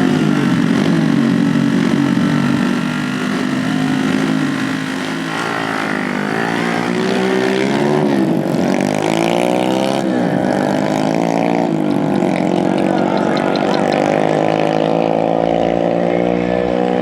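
Dirt bike engines revving hard in a drag race: a steady engine note, then several rising and falling sweeps of pitch as the bikes accelerate and shift about five seconds in, settling into a higher, slowly climbing note.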